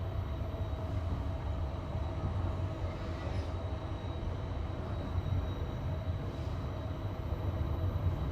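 Passenger train carriage running on jointed rail track: a steady low rumble with the clatter of wheels over the rail joints.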